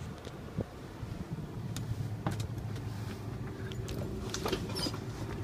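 Clicks, knocks and rattles of a truck cab door being opened, over a steady low hum that strengthens about a second in.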